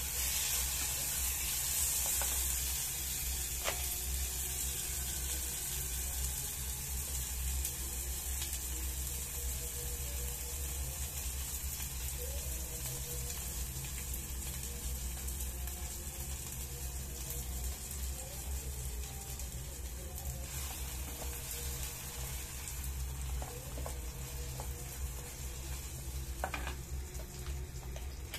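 Chopped tomato, shallot and garlic sizzling in a small electric frying pan while being stirred and scraped with a spatula, with a few short spatula taps. The sizzle is strongest at the start and eases somewhat toward the end, over a steady low hum.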